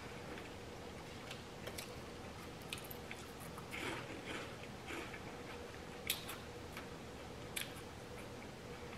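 Close-miked chewing of food, with scattered soft crunches and mouth clicks, over a faint steady hum.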